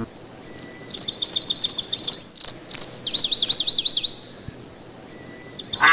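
A small bird chirping in quick, high-pitched trilled bursts, several runs of rapid repeated notes with short pauses between.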